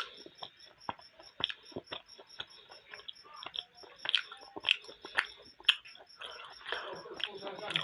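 Someone chewing momos close to the microphone: irregular wet smacks and mouth clicks, a few of them sharper. Underneath runs a steady, faint, high-pitched ticking about four times a second.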